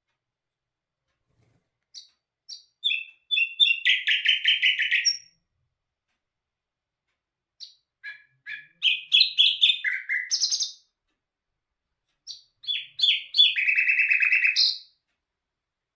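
A songbird singing three phrases a few seconds apart. Each phrase opens with a few short separate notes and runs into a fast, rapidly repeated trill.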